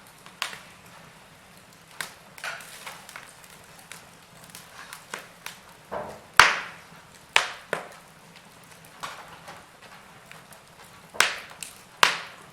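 Burning logs crackling in a fireplace: irregular sharp pops and snaps, a few louder cracks about halfway through and near the end, over a faint steady hiss.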